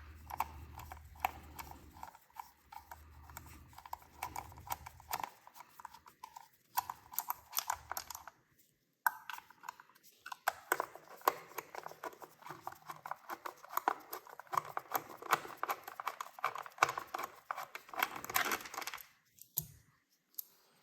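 Hand tools at work removing a motorcycle's front sprocket cover: long runs of quick clicking and rattling, broken by a few short pauses.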